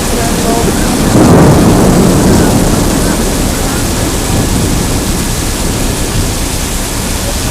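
Heavy downpour of rain with a steady hiss. About a second in, a roll of thunder swells up and fades away over the next two seconds.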